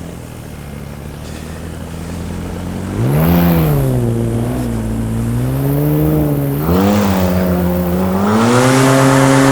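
Paramotor engine in flight, throttled low and then opened up in steps. Its pitch climbs sharply about three seconds in, dips back, rises again near seven seconds and holds higher near the end.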